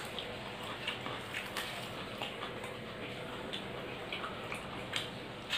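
Eating sounds of a woman chewing rice and curry eaten by hand: irregular soft clicks and smacks from the mouth, about two or three a second.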